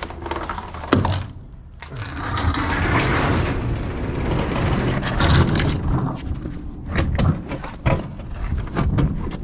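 A small stand-up freezer being shoved and scraped across a hard surface as it is loaded for hauling away, with a knock about a second in and a run of sharp knocks and bumps near the end.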